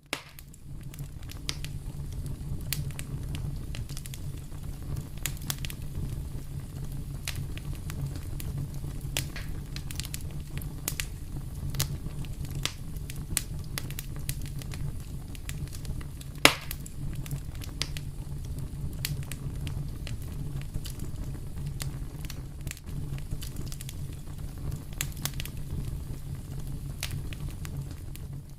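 Fireplace fire crackling: a steady low rumble of the flames with frequent scattered pops and snaps, and one loud sharp snap a little past the middle.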